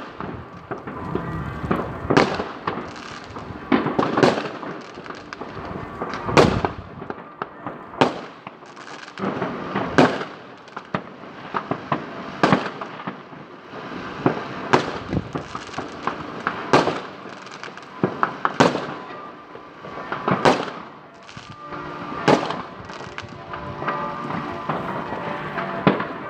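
New Year's Eve fireworks going off: loud, sharp bangs about every one to two seconds over a constant crackling of smaller firecrackers.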